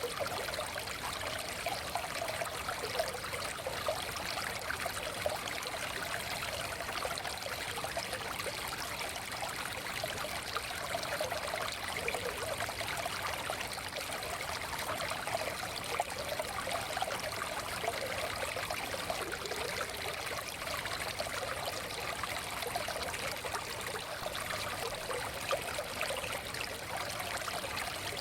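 Small forest stream flowing and trickling over stones, a steady babbling with fine splashy detail.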